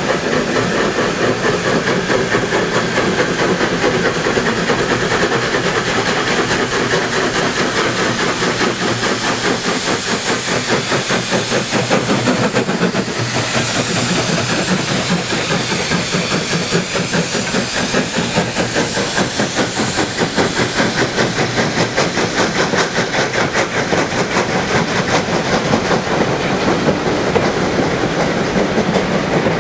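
Heritage railway train running, its wheels clicking rapidly and steadily over the rail joints, with a spell of steam hiss about 13 seconds in.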